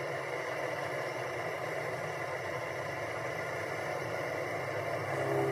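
A steady running noise like a motor or machine, with a low hum and no breaks.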